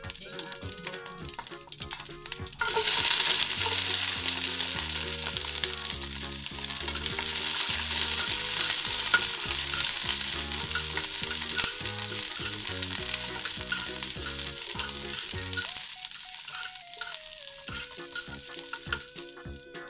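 Broccoli florets stir-frying in hot oil in a nonstick pot, turned over with a spatula. The sizzle starts suddenly and loudly about three seconds in as the broccoli goes into the oil, then eases off slowly toward the end. Faint background music plays underneath.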